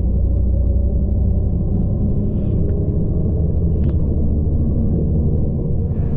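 Steady low rumble of a transit bus heard from inside the cabin: engine and road noise, with a few faint rattling ticks.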